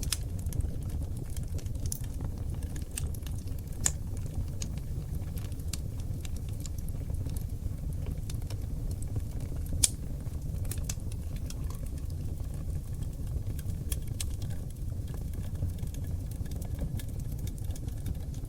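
Oak logs burning in a wood fireplace, crackling with irregular small pops over a low, steady rumble of the flames. Two sharper pops stand out about 4 and 10 seconds in.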